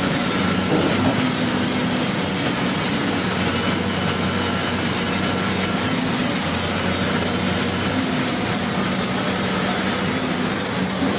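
Caterpillar 330D excavator's diesel engine running steadily: a low hum under a loud, constant high hiss.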